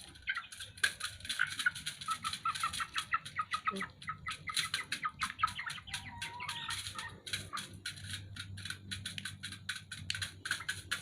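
Young free-range village chickens (ayam kampung), about two months old, peeping and clucking in a rapid, continuous run of short calls.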